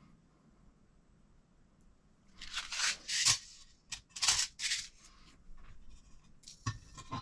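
Two short rasping tearing sounds about a second apart, then a few light clicks of small parts being handled.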